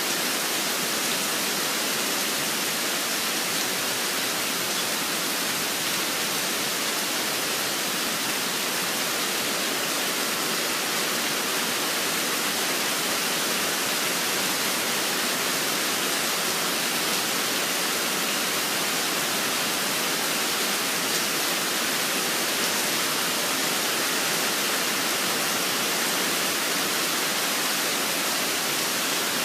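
Steady rain, an even hiss with no single drops or bird calls standing out.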